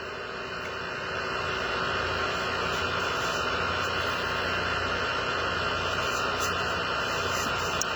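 Steady hiss with a low hum from a guitar amplifier left on after the electric guitar stops playing. The hiss swells slightly about a second in.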